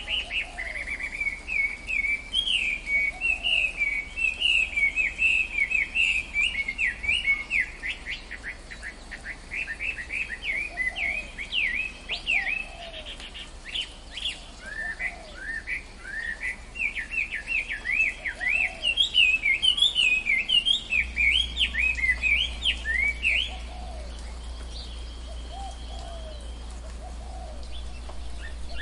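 Tropical forest birds chirping in long, fast runs of quick high notes, with a softer lower call repeated every second or two. The chirping stops about three-quarters of the way through, leaving a faint steady whistle.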